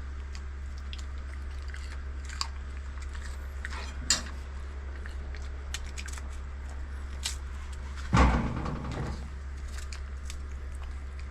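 A dog chewing pieces of fresh peach, with scattered sharp crunching clicks and a louder clatter about eight seconds in, over a steady low hum.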